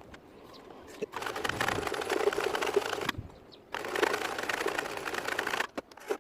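An old restored Brother sewing machine running and stitching in two runs of about two seconds each, with a short pause between them. The stitch mechanism makes a fast, even clatter.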